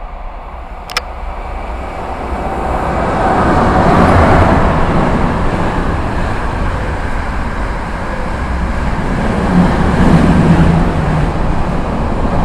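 Intermodal container freight train passing, a steady rumble of wagon wheels on the rails that swells about two seconds in as the train comes level. A single sharp tick comes about a second in.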